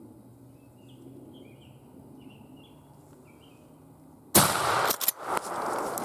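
A few faint bird chirps over quiet woods, then about four seconds in a single sudden shotgun blast, followed by loud rustling and thumping.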